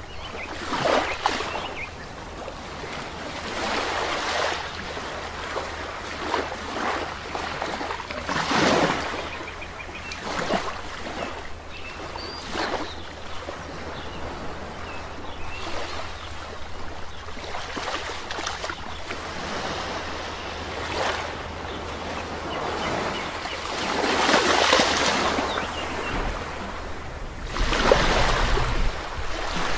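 Sea waves breaking and washing on a beach, each surge swelling and falling away every few seconds, with the loudest breaks near the end.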